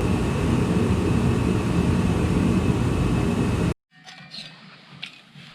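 Power tool cutting mud-flap support brackets out of sheet steel, a loud steady running noise. It stops abruptly a little over three and a half seconds in, leaving faint clicks and handling sounds.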